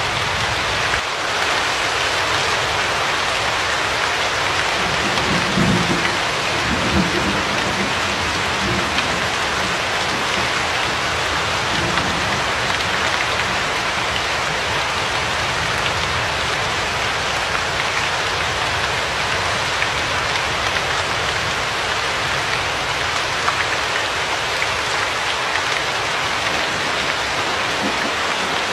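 Steady heavy rain falling on a surface, a dense even hiss, with low rumbles of thunder about five to seven seconds in and again briefly near twelve seconds.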